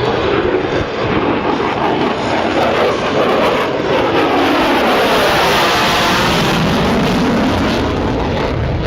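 Jet roar of a Lockheed Martin F-35B's Pratt & Whitney F135 engine as the fighter passes the crowd. The roar swells to its loudest near the middle and holds there with a sweeping, phasing tone as the aircraft goes by.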